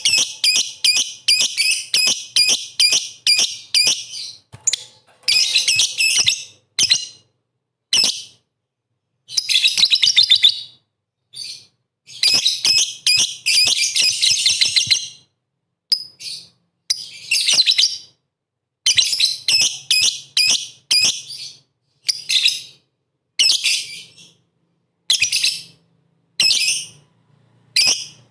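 Lovebird singing in runs of rapid, shrill chirps broken by short silences.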